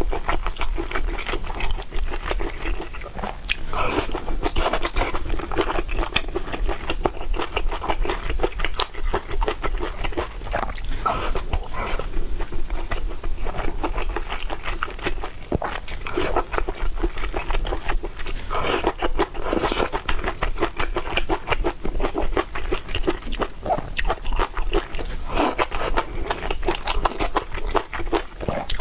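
Close-miked eating: continuous chewing and crunching of food, a dense, irregular run of wet clicks and crackles.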